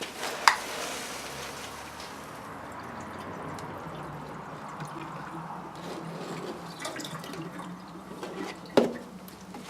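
Antifreeze coolant pouring steadily from a jug into a tractor radiator's filler neck, with a sharp click about half a second in and a short knock near the end.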